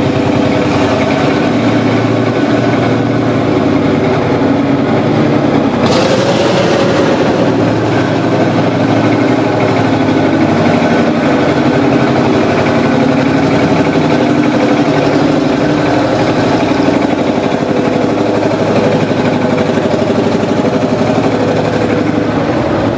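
Vintage Marshall tractor engine running with a steady, fast firing rhythm. About six seconds in a sudden brighter rush of noise comes in and fades over a couple of seconds.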